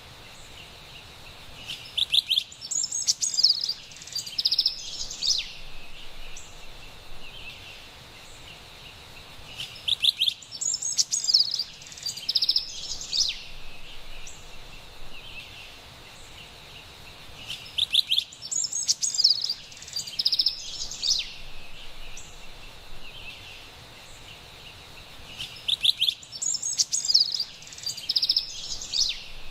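Carolina wren singing: four bursts of song about eight seconds apart, each a few seconds long, over a steady faint hiss of background ambience.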